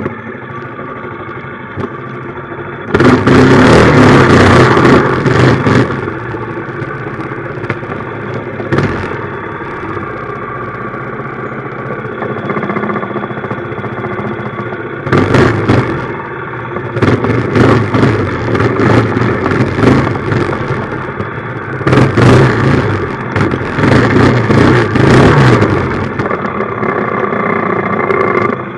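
Minibike's small engine running at idle and revved hard in several bursts: once about three seconds in for a few seconds, then repeatedly through the second half.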